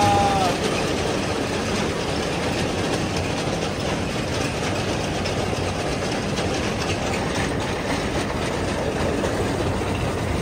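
Narrow-gauge train running, heard from an open passenger carriage: a steady rumble and clickety-clack of wheels on the rails as a small locomotive and its string of empty steel skip wagons pass on the next track.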